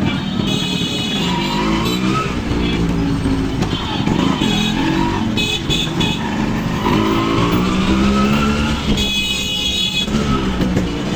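Motorcycle engine running, its pitch rising and falling again and again as the revs change.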